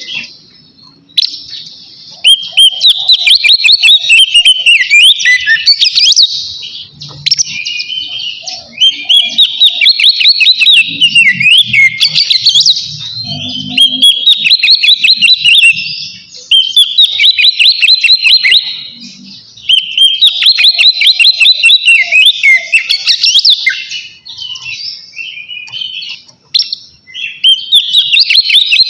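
Oriental magpie-robin (kacer) singing its loud, full 'ngeplong' song: long phrases of rapid, varied, sliding whistled notes, broken by a few brief pauses.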